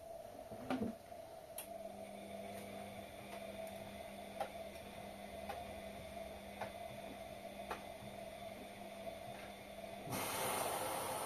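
Front-loading washing machine starting a cycle: a steady electrical hum with regular clicks about once a second, then a sudden loud hiss near the end as the water inlet valve opens and water rushes into the drum.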